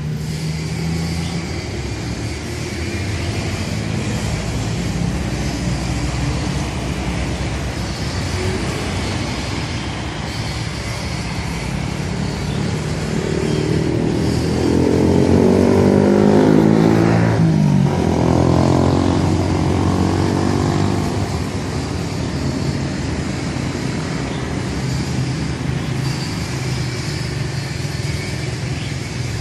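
A motor vehicle drives past over steady road noise, its engine note dropping in pitch as it goes by about halfway through.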